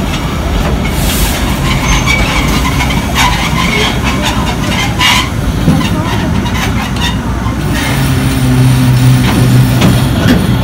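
Diesel locomotive running as it slowly pulls a string of open-sided passenger cars past, with a steady engine drone and scattered clatter from the wheels on the rails. The engine drone grows louder about eight seconds in.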